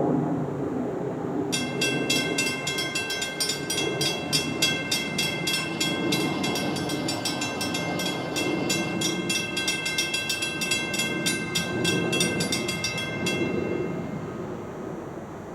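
Train rumbling with a bell ringing rapidly over it, about five strokes a second. The bell starts about a second and a half in and stops near the end.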